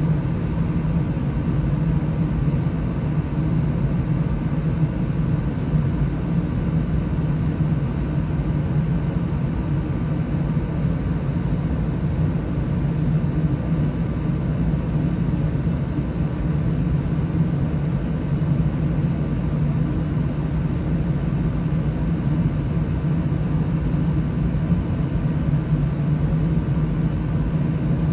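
20-year-old Bryant gas furnace running, a steady low rumble that does not change.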